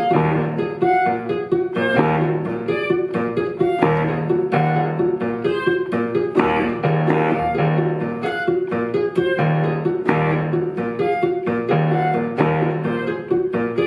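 Live instrumental ensemble music: a guitar plucking a repeating rhythmic figure over bowed strings holding low notes.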